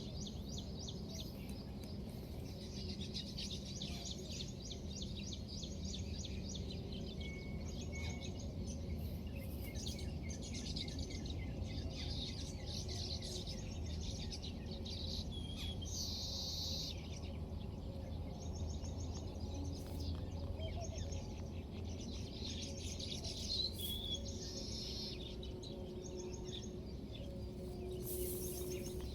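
Small birds chirping and trilling in quick high runs, on and off, over a steady low background hum.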